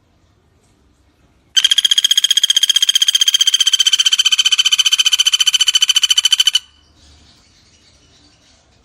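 Pelatuk bawang woodpecker giving a loud, fast, even rattling trill of about ten notes a second. It starts about a second and a half in and lasts about five seconds before cutting off.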